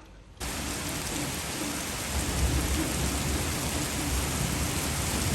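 Heavy rain pouring down, starting suddenly about half a second in, with a low rolling rumble of thunder underneath from about two seconds in.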